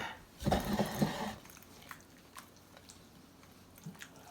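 Sauced gnocchi being spooned and moved in a dish: a brief wet squishing of soft dough and sauce about half a second in, then a few faint light clicks of the utensil.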